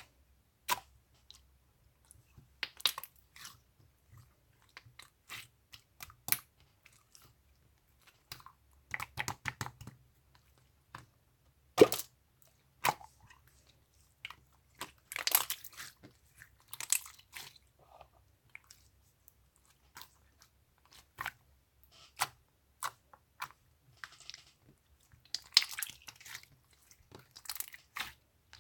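Irregular close-up crunching and clicking sounds in short bursts, with a sharp snap about 12 seconds in.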